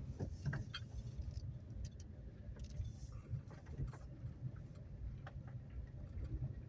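Car idling: a low steady rumble with faint scattered clicks.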